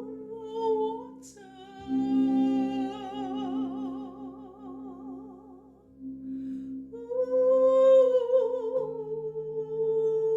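Wordless sung or hummed tones: long held notes with a slow, even vibrato, sliding between pitches in several phrases, over a steady low drone.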